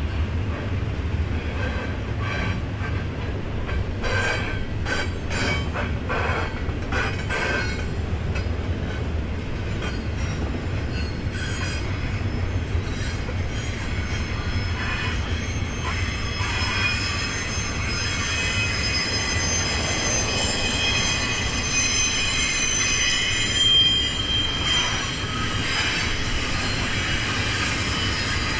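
Double-stack container cars of a freight train rolling through a curve: a steady low rumble, with a run of clanks and knocks in the first several seconds, and wheel flanges squealing in high steady tones from about halfway through.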